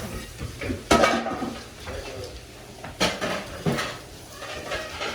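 Dishes and plates clattering as they are handled and put away, with a few sharp clinks of crockery knocking together.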